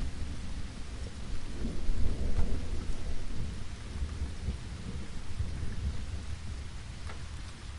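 Steady rain falling, with a low rolling rumble of distant thunder that swells about two seconds in and slowly dies away.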